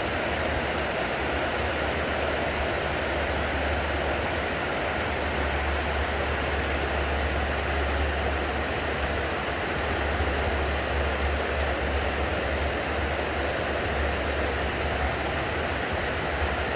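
Heavy rain pouring steadily, a dense even hiss, with a steady low rumble underneath.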